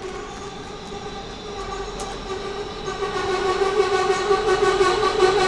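SA133 diesel railcar pulling into the platform and drawing nearer, with a steady pitched whine that grows louder, strongest from about halfway in. A single sharp click about two seconds in.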